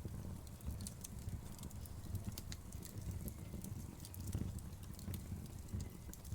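Wood fire crackling, with irregular sharp pops and snaps from the burning wood over a steady low rumble.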